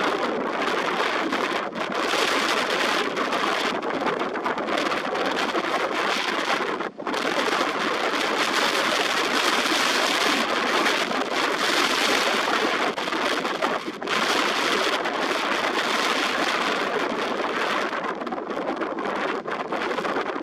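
Strong wind buffeting the microphone: a loud, steady rushing noise that dips for a moment twice, about 7 and 14 seconds in.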